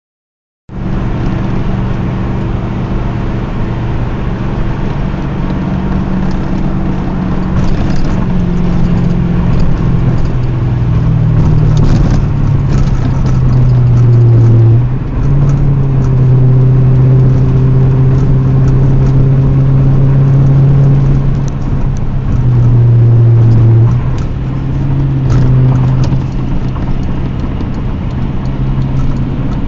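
1997 Lexus SC400's V8 engine running and being revved, its pitch stepping up and holding at higher revs several times with short dips between.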